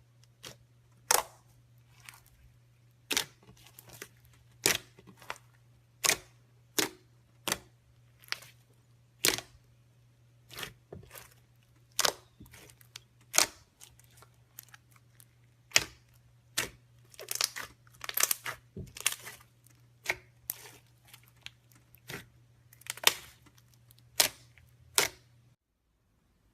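Slime being squeezed and poked, giving sharp clicking pops at irregular intervals, some in quick clusters, over a low steady hum that cuts off near the end.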